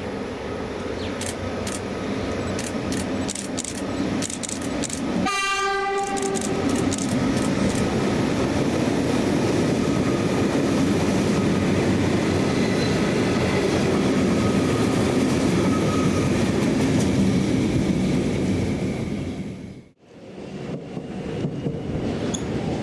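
Train horn sounding one note for about a second, about five seconds in, over the rumble and wheel clicks of a train on the rails that grow steadily louder as it approaches. The train is plausibly Metro Trains Melbourne's inspection train.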